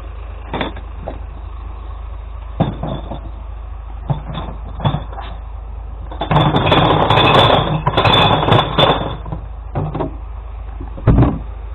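Glass collection truck running with a steady low hum, several single knocks, and a few seconds of loud clattering starting about halfway through.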